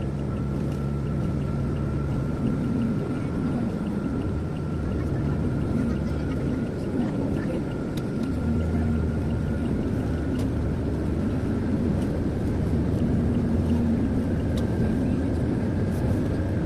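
Car cabin noise while driving: steady low engine and tyre drone with a faint constant high whine.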